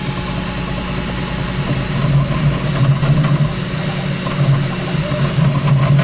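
Bambu Lab P1S CoreXY 3D printer running a print: a steady mechanical hum from its motors and fans that swells and fades as the print head makes rapid moves. It has a scraping, loose sound that the owner notices.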